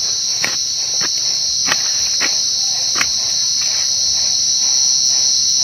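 Crickets singing, a loud unbroken high-pitched trill, with a few faint clicks scattered through it.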